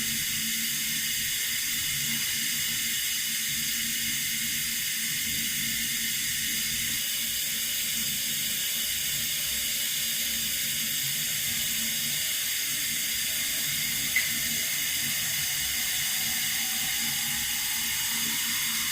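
Water running steadily from a tap, an even, high rushing noise. A brief click comes partway through, and a faint tone rises in pitch near the end.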